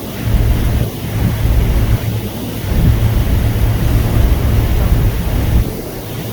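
Wind buffeting the microphone in gusts: a heavy low rumble that swells and drops every second or so, over a steady hiss.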